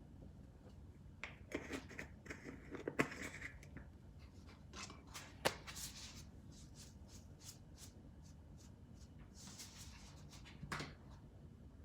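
Faint kitchen handling sounds: scattered clicks, taps and short rustling scrapes as food and utensils are handled, with one sharper click about halfway through.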